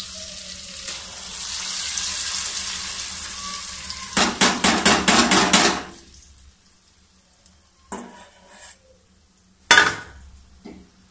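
Tomato masala sizzling in hot ghee in a kadhai as saag is poured in. About four seconds in, the steel bowl is scraped out in a quick run of strokes, and then the sizzling dies away. Two sharp knocks of utensil on pan come near the end.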